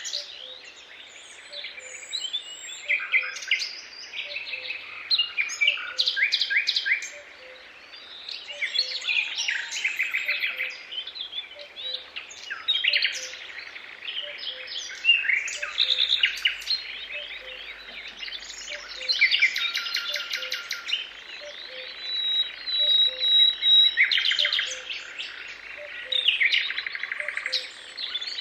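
A chorus of several songbirds singing at once, a dense mix of chirps and rapid trills, with a faint low note repeating at a steady pace underneath.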